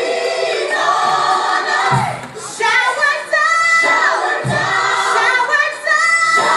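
Gospel music: a choir singing sustained, gliding lines, with low beats about every two and a half seconds.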